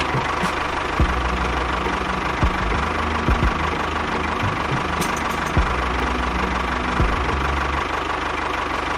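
A small motor running steadily with a dense whirring noise, punctuated by a few separate sharp knocks.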